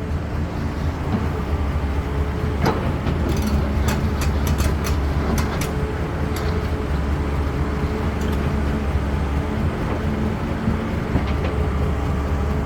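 CAT 320D excavator's diesel engine running steadily with a deep rumble and a steady hum from the machine. A cluster of sharp knocks and clatter comes a few seconds in, with one more near the end.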